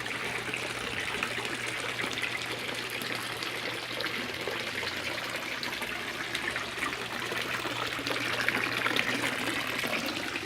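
Steady trickle and splash of water falling into a carp pond, with a low steady hum underneath.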